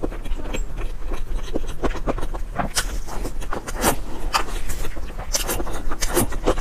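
Close-miked wet chewing of soft cheesecake: a rapid, irregular run of short mouth clicks and smacks.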